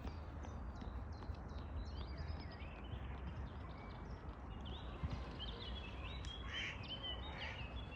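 Small birds chirping and whistling, many short calls one after another, over a steady low rumble.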